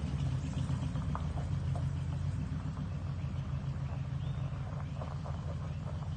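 Truck engine running with a steady low rumble, with faint irregular ticks and clicks over it.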